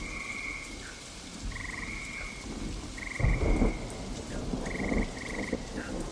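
Rain falling steadily while frogs call in short, pulsed trills, several times over. Low thunder rumbles underneath, loudest about three seconds in and again near five seconds.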